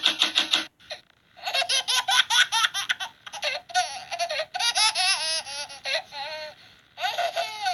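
A baby laughing in runs of quick, high-pitched giggles. There is a short break about a second in, and a lull near the end before another burst of laughter.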